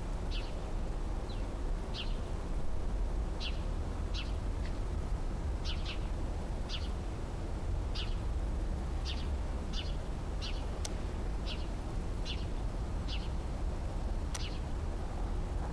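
A bird calling in a steady series of short, high chirps, roughly one a second, over a constant low outdoor rumble.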